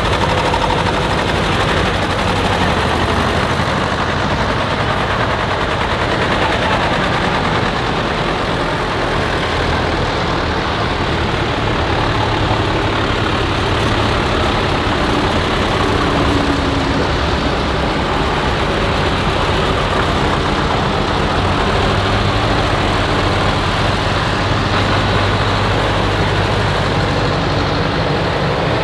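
Tractor engines running steadily with a low, even drone.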